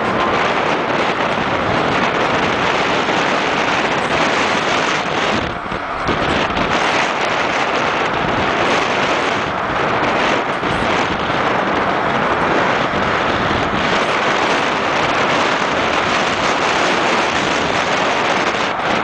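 Steady rush of wind buffeting the microphone over road and traffic noise, easing briefly about five and a half seconds in.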